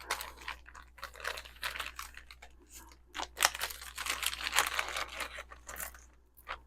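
Packaging crinkled and torn open by hand: irregular rustling and crackling, with one sharper, louder crackle about halfway through, dying away near the end.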